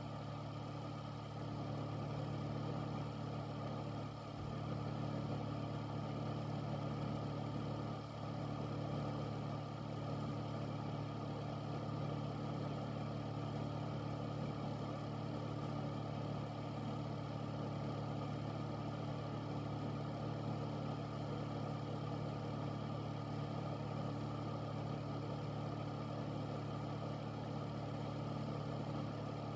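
Air filter's fan running steadily: a low motor hum under an even rush of moving air.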